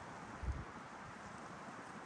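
Wind blowing through pine needles, a steady hiss, with one brief low thump about half a second in.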